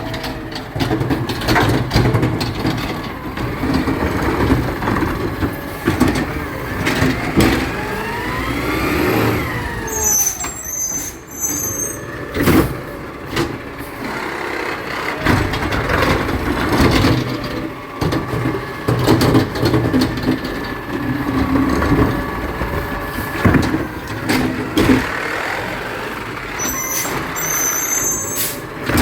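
Garbage truck working: its diesel engine running, with repeated clanks and knocks and a rising whine about seven seconds in. Short high squeals come about ten seconds in and again near the end.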